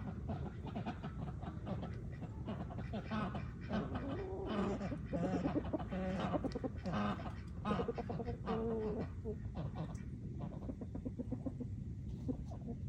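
Animal calls: a run of short, repeated calls, loudest in the middle of the stretch, over a steady low background.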